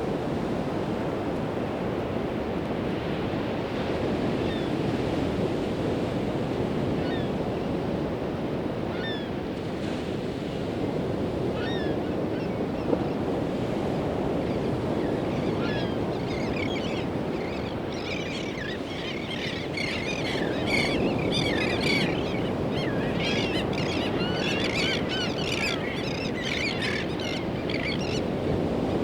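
Ocean surf washing steadily on the beach in gentle swells. Through the second half a burst of many short, high chirping calls rises above the surf.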